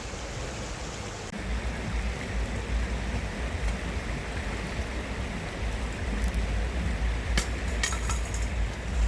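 Steady rush of flowing stream water, with a low rumble joining it about a second in. A few light sharp clicks come near the end.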